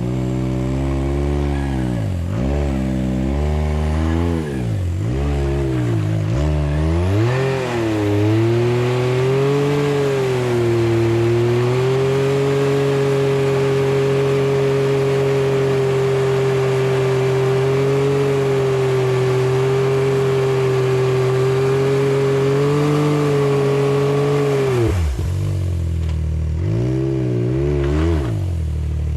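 Can-Am X3's turbocharged three-cylinder engine revved up and down repeatedly for the first several seconds, then held at a steady high pitch for about fifteen seconds under load. It drops off about four seconds before the end, followed by a few more quick revs.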